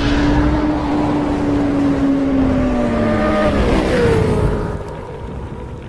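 Engine note of a fast vehicle, held steady and slowly sinking, then dropping in pitch about three and a half seconds in and fading away, like a vehicle passing by.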